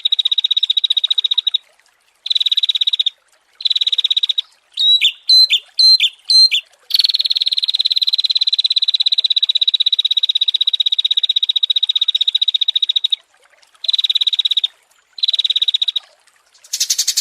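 Small songbirds singing in a masteran training recording: long, rapidly pulsed high trills broken by short pauses, with four loud rising whistled notes about five to six and a half seconds in.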